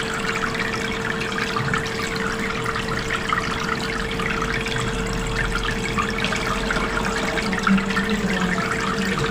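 Water trickling and splashing steadily in a small homemade plastic-bottle waterfall fountain run by a mini submersible pump, with a steady hum underneath.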